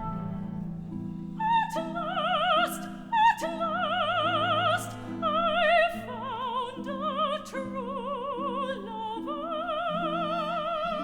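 Operatic soprano singing a slow line of long high notes with wide vibrato, over low sustained notes from the accompanying instruments.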